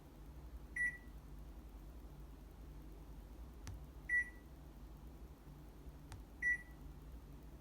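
Panasonic NA-VX9800R drum washer-dryer's control panel beeping three times, short single-pitch beeps a few seconds apart, with two faint clicks between them over a low steady hum.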